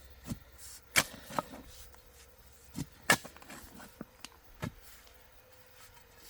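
Irregular sharp knocks and taps, about eight in under five seconds, the loudest about a second in and again about three seconds in.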